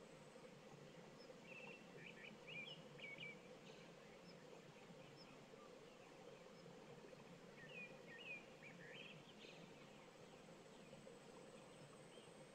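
Faint songbird song at dusk: two short phrases of quick high chirps, about two seconds in and again about eight seconds in, over a low steady hum of evening background.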